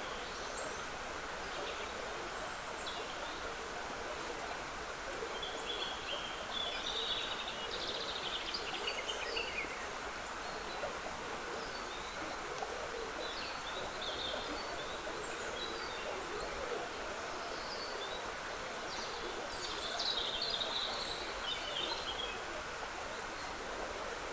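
Trickling water running steadily, with small woodland birds singing over it: one spell of song about five seconds in and another near the end.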